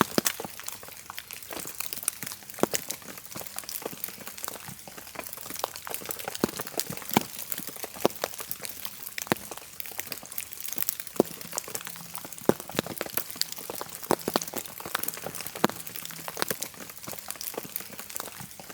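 Small wood fire crackling in a metal firebox, with irregular sharp pops and snaps, several a second, over a faint hiss.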